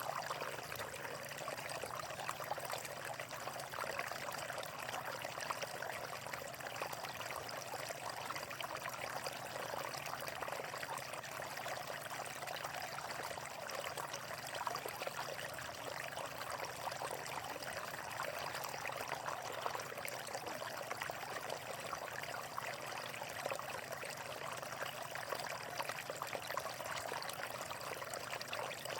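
Flowing water running steadily, an even rush that never lets up.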